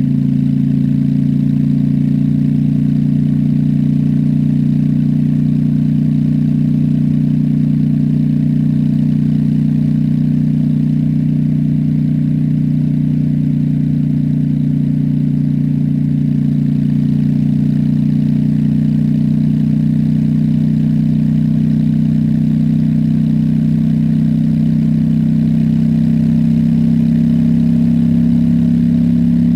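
Honda Shadow's V-twin engine running steadily under way at a nearly constant speed, holding an even, unchanging note, a little louder near the end.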